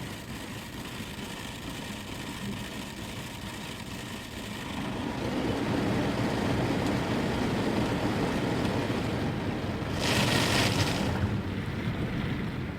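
Istobal M18+ automatic car wash gantry running and spraying around the car, heard from inside the car's cabin: a steady rushing that grows louder about five seconds in, with a brief harsh hiss of spray about ten seconds in.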